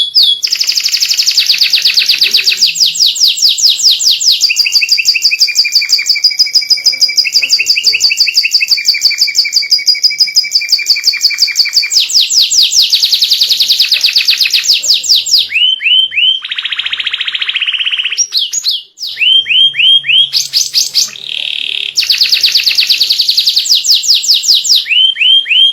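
White canary singing loudly in long rolling trills of fast repeated notes. Short pauses break the song, with a few quick rising chips between phrases.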